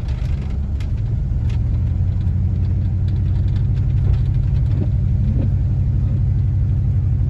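Car engine and road rumble heard from inside the cabin while driving: a steady low drone.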